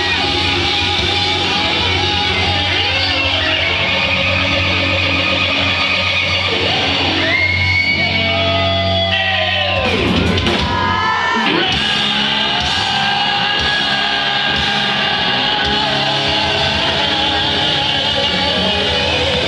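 Live rock band playing, with electric guitar out front. A little before halfway, a long slide falls steeply in pitch.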